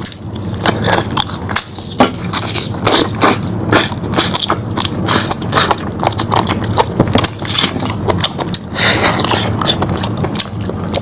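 A person biting and chewing cooked lamb meat close to the microphone: an irregular run of wet clicks and crackles.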